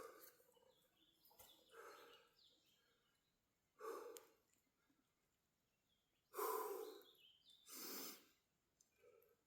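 A man breathing hard from exertion: about four heavy, audible breaths a couple of seconds apart, the loudest pair near the end.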